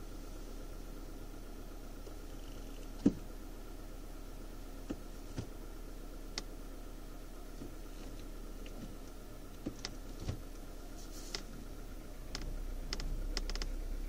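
Car engine idling steadily, heard from inside the cabin, with scattered short sharp clicks and taps: one louder click about three seconds in, and a quick cluster of clicks near the end.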